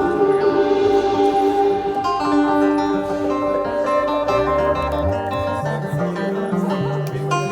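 Instrumental music on plucked string instruments, led by guitar, with sustained chords and a bass line that steps up and down about halfway through; no singing.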